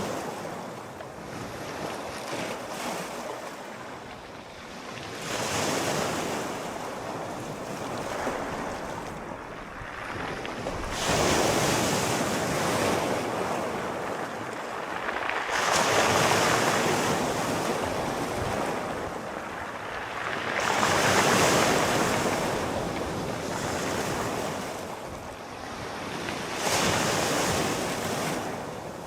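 Sea waves breaking and washing on the shore, surging in repeated swells every few seconds, with a steady undertone of wind.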